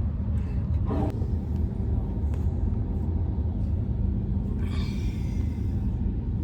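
Steady low rumble of a moving train heard from inside the coach, with a brief higher-pitched screech about five seconds in.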